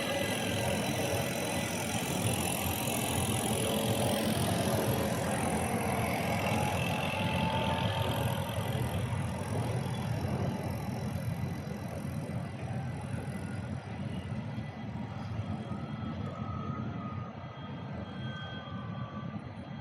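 A tram towing a broken-down tram runs by on street rails with a steady rumble and a few short thin squeals, then fades as it moves away.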